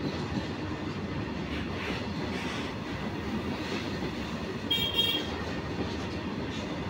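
Freight train of open hopper wagons rolling past, a steady rumble and rattle of wheels and wagon bodies. About five seconds in, a brief high-pitched tone sounds over it.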